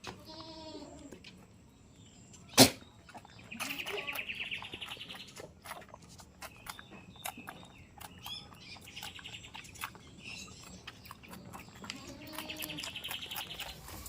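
Birds chirping in short, fast trills that come and go several times, with scattered faint clicks and one sharp knock about two and a half seconds in.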